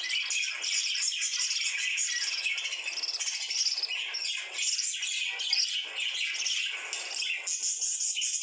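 Pet lovebirds chattering, a dense unbroken stream of high-pitched calls.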